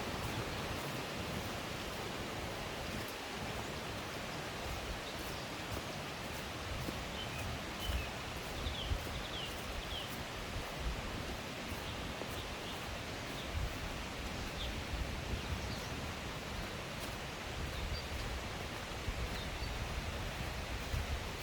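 Steady rush of a flowing mountain stream, with short high bird chirps scattered through it, most around a third of the way in and again near the end.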